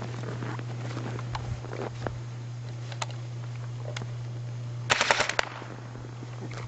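Airsoft guns firing: scattered single shots, then a rapid burst of about seven shots around five seconds in. A steady low hum runs underneath.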